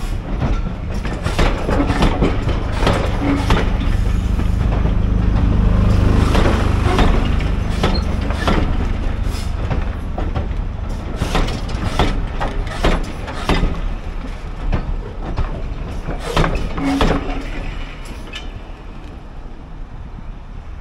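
A train of passenger coaches rolling past close by, wheels clicking irregularly over the rail joints over a heavy low rumble. The sound drops away near the end as the last coach passes.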